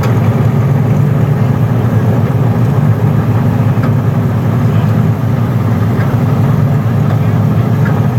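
Engine idling steadily at a low, even pitch, with no revving.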